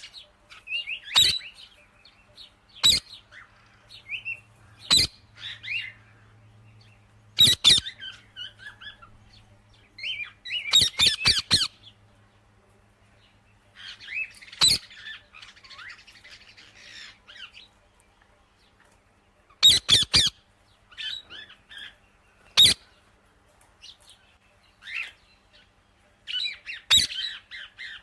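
Parrots squawking: loud, sharp screeches every couple of seconds, some in quick runs of several, with softer chattering chirps in between.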